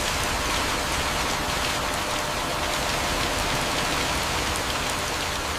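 Steady heavy rain: an even hiss with scattered drop ticks, cutting in suddenly at the start.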